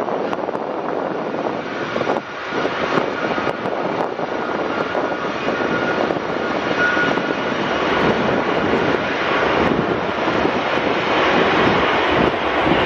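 Fixed-wing aircraft engines running, a continuous rushing noise that grows gradually louder.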